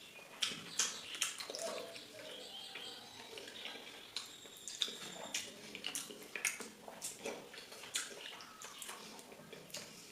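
Wet eating sounds: chewing and mouth smacking, heard as an irregular string of short, sharp wet clicks.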